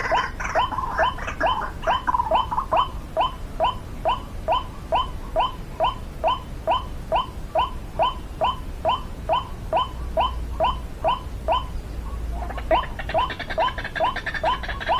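White-breasted waterhen calling: a short rising 'kruak' note repeated steadily about twice a second, pausing briefly near the end and then starting again.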